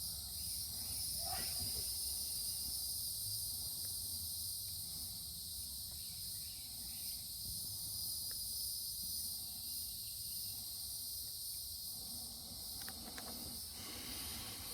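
Steady high-pitched chorus of insects, over a low steady rumble.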